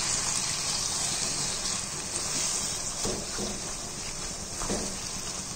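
Beef mince and onion masala sizzling in a karahi with a steady hiss, while a spatula stirs it, giving a few soft scrapes about three seconds in and again near the end.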